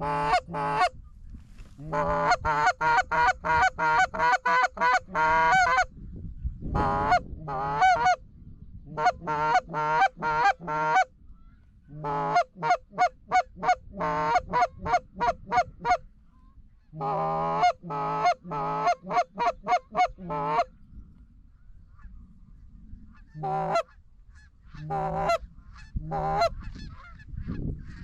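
Geese honking in rapid runs, about three honks a second, broken by short pauses, thinning to a few single honks near the end.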